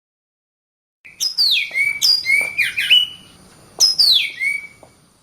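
Bird calls: a quick run of loud whistled notes, each sliding down in pitch, starting about a second in, then a second shorter run near four seconds.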